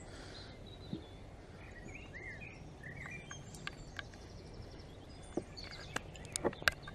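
Faint outdoor background noise with small birds chirping, short rising and falling chirps in the first half, and a few sharp clicks near the end.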